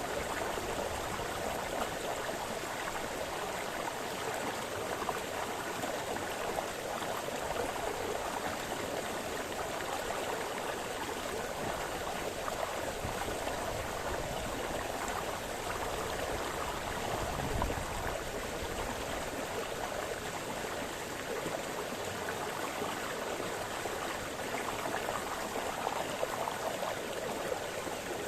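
Small forest brook splashing and burbling steadily over stones, with a brief deeper gurgle a little past the middle.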